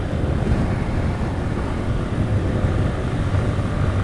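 Motorcycle riding along a road: steady low engine and road rumble mixed with wind noise on the bike-mounted phone's microphone.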